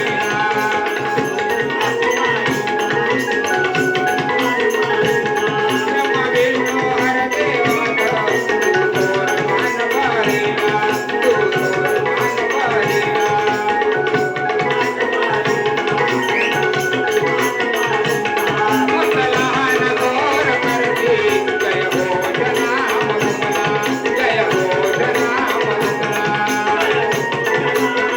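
Konkani Naman folk music: sustained steady melodic tones over a hand drum, with a fast, even ticking of percussion throughout.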